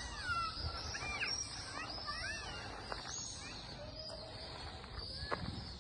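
Birds chirping and calling: many short rising-and-falling chirps overlapping throughout, over a low rumble.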